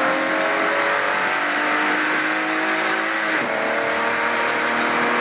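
Rally car's engine heard from inside the cabin, pulling at full throttle with its pitch climbing, then dipping sharply about three and a half seconds in as it changes up a gear and pulls again, over steady road and tyre noise.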